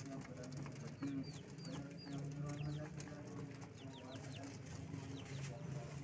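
Birds feeding: low cooing with bursts of short, high, falling chirps.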